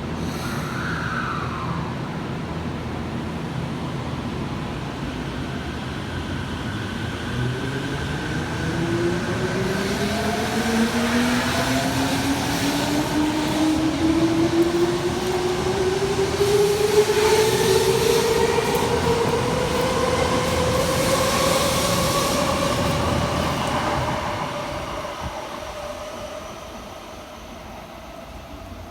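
Tokyo Metro Tozai Line train pulling away from the platform: its motor whine rises steadily in pitch as it gathers speed, over wheel and rail rumble, then fades away near the end as the train leaves.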